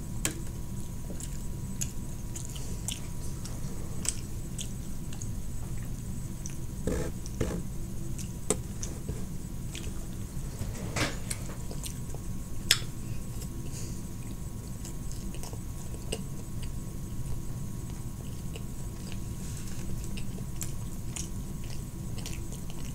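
Close-up chewing of a California roll, with scattered small clicks and a few sharper taps of a metal fork against a plastic sushi tray.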